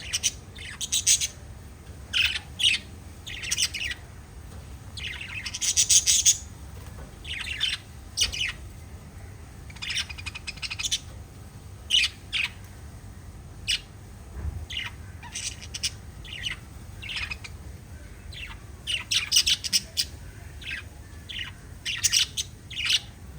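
Several small pet parrots chirping and tweeting in quick, irregular bursts, often overlapping, with a faint steady low hum beneath.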